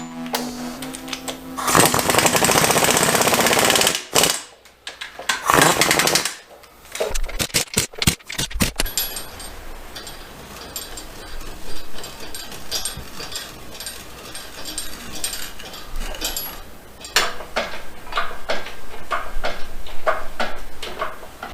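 A power tool running in two short bursts, then a quick run of knocks and scattered metal clicks from hand tools.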